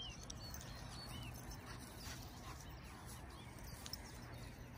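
Faint outdoor quiet with a few short bird chirps near the start and about a second in.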